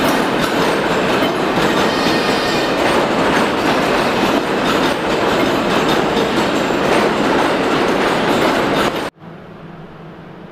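Subway train running on the tracks at a platform, a loud, steady rumble of wheels and rail noise that cuts off abruptly about nine seconds in, leaving a low hum.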